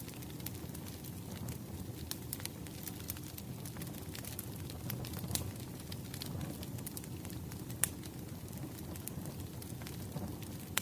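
Wood fire crackling: irregular sharp pops and snaps over a steady low rumble, with one louder pop about three-quarters of the way through.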